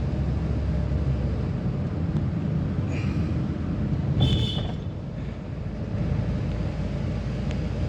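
Steady low engine and road rumble of a vehicle driving along an unpaved forest road, with a short high chirp about four seconds in.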